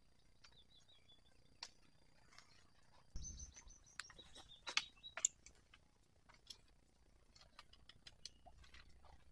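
Faint birds chirping in short high trills, with scattered small clicks and a brief low rumble about three seconds in.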